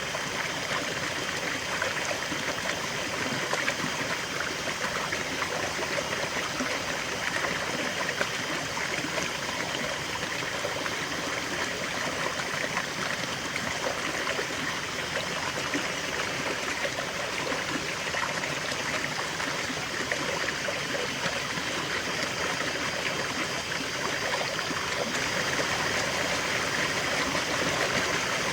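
River water flowing over stones, a steady rushing and trickling that stays even throughout.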